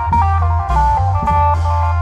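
Isan klong yao (long-drum) band music: a quick plucked-string melody over a steady low bass and drum beats.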